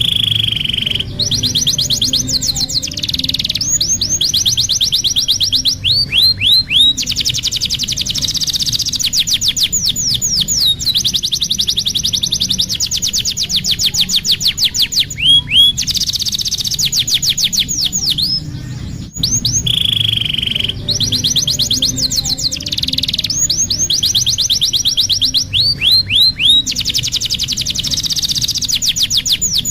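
Domestic canary singing a continuous song of fast rolling trills, rapid repeated notes and down-slurred whistles, with short pauses between phrases. The same run of phrases starts over about two-thirds of the way through.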